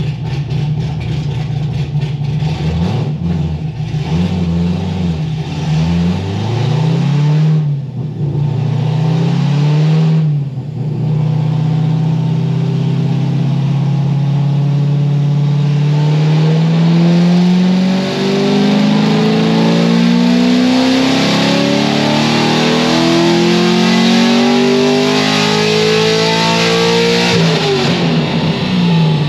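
The 7.0 L LS7 V8 of a C6 Corvette Z06, cammed and straight-piped through a titanium exhaust, making a wide-open-throttle pull on a chassis dyno. The engine revs up and down a few times, then climbs steadily in pitch for about fifteen seconds through the pull, and falls off sharply near the end as the throttle closes.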